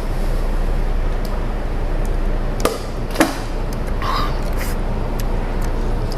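Two sharp clicks about half a second apart, chopsticks knocking against the plate, over a steady low background hum.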